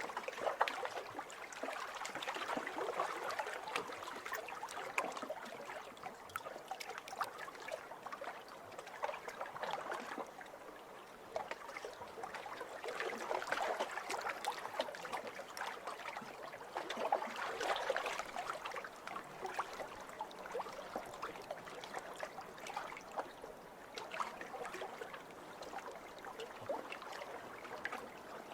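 Small waves lapping over a pebble shore, the water washing through the stones with a patter of fine clicks, swelling and easing every few seconds.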